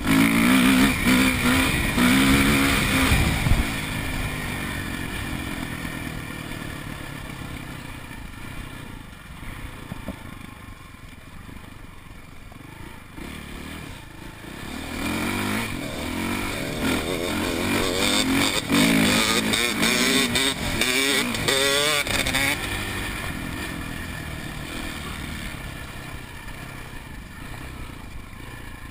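Four-stroke dirt bike engines revving and riding past. They are loud in the first few seconds, fade into the distance, then come back louder with the revs climbing before fading away again.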